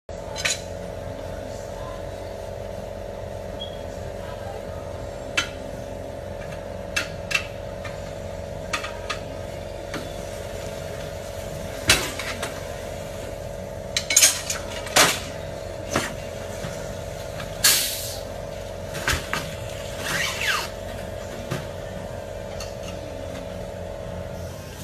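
Metal tools clinking and knocking at irregular intervals over a steady mechanical hum, the sounds of tyre-repair work; the hum stops near the end.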